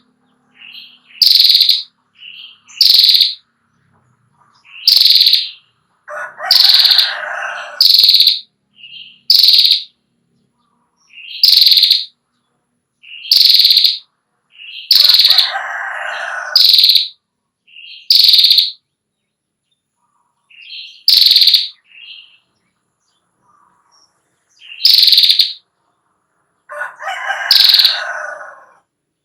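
Female prinia (prenjak klawu) calling: loud, sharp high notes repeated every second or two, broken three times by a longer, lower, dry rattling trill, the long 'ngetir' call.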